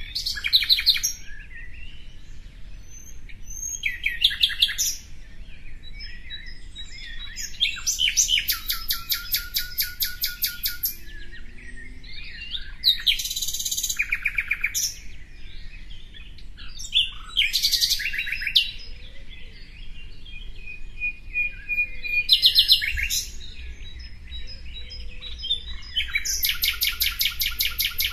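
A songbird singing loud phrases of rapid repeated high notes every few seconds. Some phrases are short bursts and others are fast trills lasting two to three seconds.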